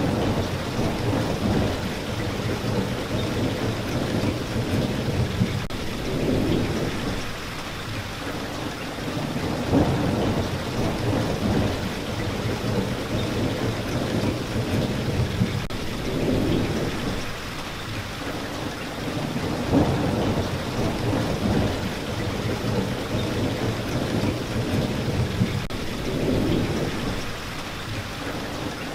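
Rain falling steadily, with a low rumble that swells and fades every few seconds.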